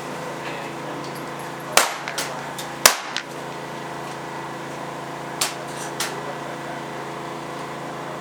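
PCP air rifles firing on the line: about four sharp cracks and a few smaller ticks, the loudest about three seconds in, over a steady hum.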